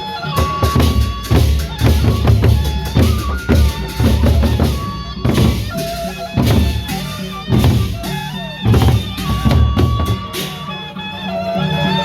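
Nyongkolan procession band music: a run of heavy drumming over a sustained, reedy melody. The drums drop out near the end while the melody carries on.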